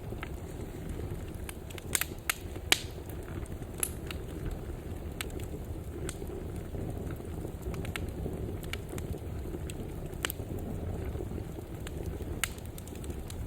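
Wood fire burning in a fireplace: a steady low rumble of flames with scattered sharp crackles and pops, the loudest cluster about two to three seconds in and another single pop about ten seconds in.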